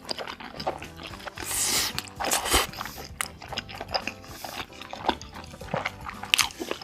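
Close-up biting and chewing of a sauce-coated fried chicken drumstick: crackling crunches and wet, sticky mouth sounds, with a loud crunchy bite about one and a half seconds in.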